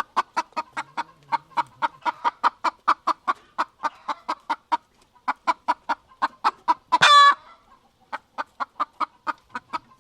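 Domestic hen clucking in a fast, even run of about five clucks a second, with one louder, longer squawk about seven seconds in.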